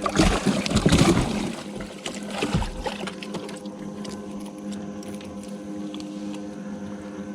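Water splashing in bursts, loudest in the first second and a half and again briefly about two and a half seconds in, over a steady electric hum on a bass boat.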